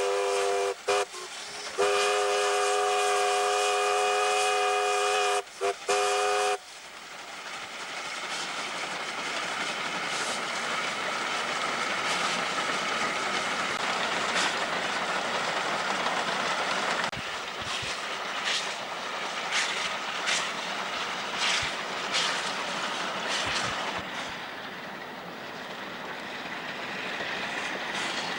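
Chime whistle of steam locomotive W901 sounding a short blast, a long blast and a short blast. Then the train's running noise builds to a steady rush, with scattered sharp clicks.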